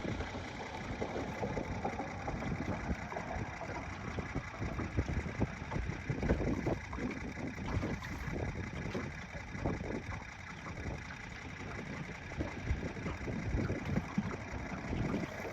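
Wind buffeting the microphone in open air, a rough, irregular rumble that rises and falls in gusts.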